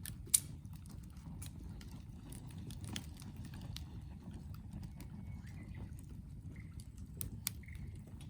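Wood fire crackling, with irregular sharp pops over a steady low rumble. Two pops stand out, about a third of a second in and again near the end.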